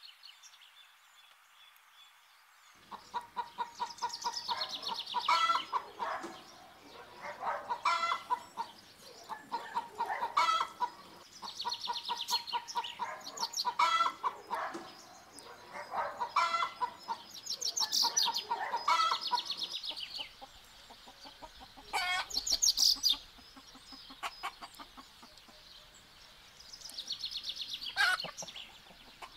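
A flock of chickens clucking, in repeated bouts of quick pulsed calls about every two seconds, starting about three seconds in.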